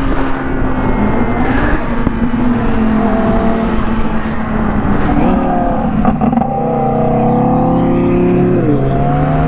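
Yamaha R6 sport bike's engine running under way, its pitch stepping up about five seconds in and dropping again near the end as the rider works the throttle and gears, with steady wind rush over the microphone.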